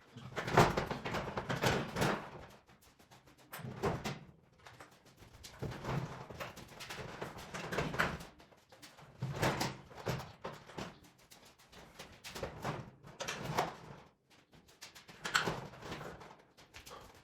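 Irregular knocks, clicks and rattling, coming in bursts with short pauses between them, as of things being handled and moved.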